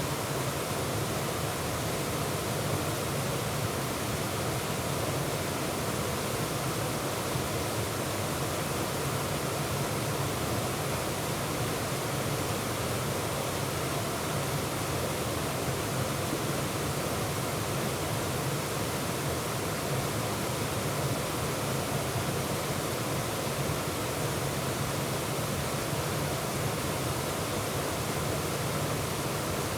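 Waterfall rushing steadily, heard close up from the middle of the falls, an even roar of falling water with no other events.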